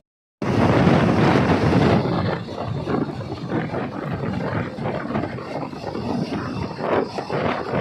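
Rumble and rattle of a moving passenger train heard from on board, with wind noise, starting after a split-second gap.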